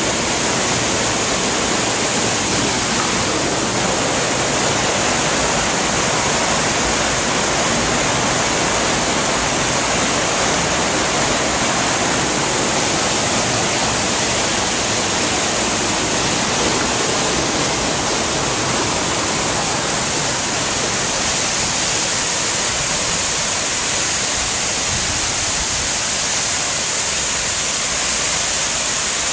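Waterfall pouring: a loud, steady rush of falling water with no change throughout.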